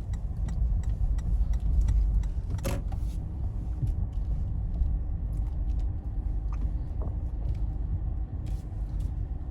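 A car driving slowly, heard from inside the cabin: a steady low rumble of engine and tyres, with faint scattered clicks and rattles.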